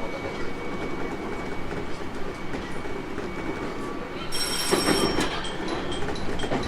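JR East 701 series 1000 subseries electric train running, a steady rumble of wheels on rail with light clicks. About four seconds in, high ringing tones join and then come in short regular pulses.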